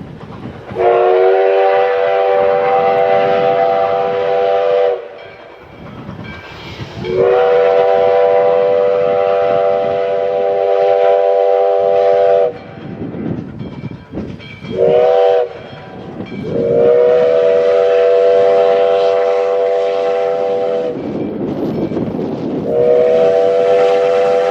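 A locomotive sounds a multi-note chime signal in the grade-crossing pattern, long, long, short, long, with another long blast starting near the end, over the rumble of the train running. This is the standard warning for a road crossing ahead.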